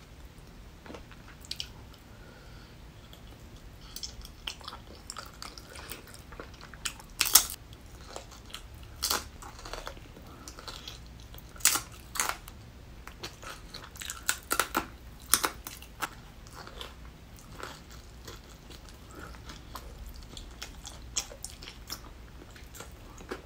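Close-miked eating: chewing and biting of tteokbokki and crispy fried potato, with irregular sharp crunches, the loudest about seven seconds in and others scattered through the middle.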